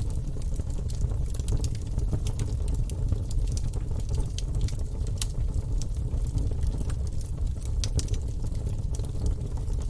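Wood fire burning in a fireplace: a steady low rumble of flames, with irregular crackles and pops from the burning logs, a few sharper pops about five and eight seconds in.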